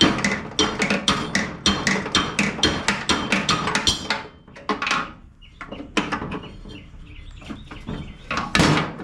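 Hammer tapping on the metal pulley of a riding mower deck's blade spindle to knock it loose: a quick run of sharp strikes, about three or four a second, for the first four seconds, then a few scattered blows with a harder one near the end.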